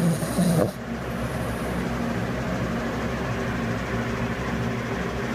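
Small terrier dog snoring in its sleep over a steady background hum. A brief louder sound in the first second stops abruptly.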